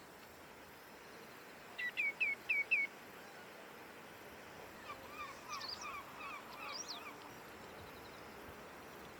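Common greenshank giving a quick run of five ringing, down-slurred calls about two seconds in. From about five to seven seconds, a fainter run of short twittering bird calls follows.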